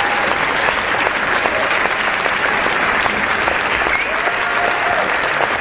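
A crowd applauding: a steady, dense patter of many hands clapping.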